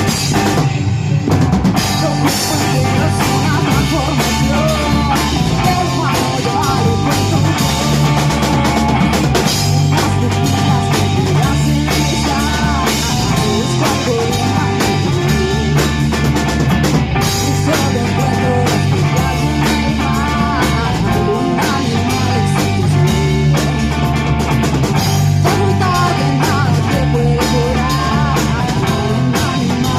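Rock band playing live, with drum kit, electric guitar and bass guitar keeping a steady groove.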